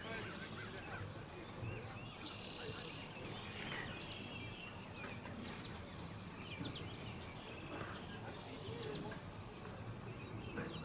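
Birds chirping and calling in short, scattered high notes over steady outdoor background noise.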